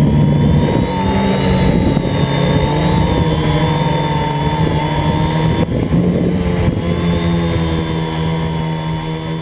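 Multirotor camera drone's motors and propellers humming steadily while it flies, the whine wavering slightly in pitch as the motor speeds adjust.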